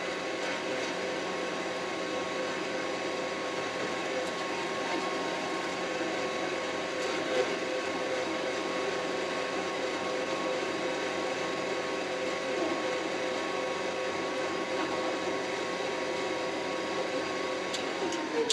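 Kioti RX7320 tractor's diesel engine running steadily under load while pushing snow, heard from inside the closed cab as an even drone with a steady whine, and one brief knock about seven seconds in.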